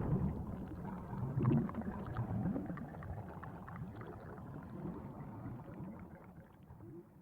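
Film sound effects: a low rumble with gurgling, water-like noise that fades away steadily.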